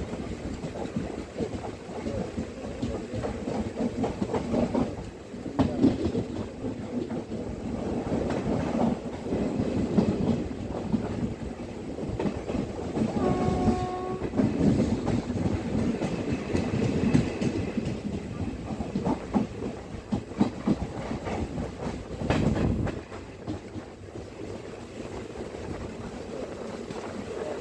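Passenger train running at speed, heard from inside a coach: a steady rumble of wheels on rails with irregular clacks over the rail joints. A short, steady horn note sounds about halfway through.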